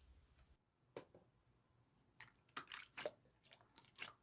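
Near silence, broken by a few faint, short clicks or ticks: one about a second in, then a small cluster in the second half.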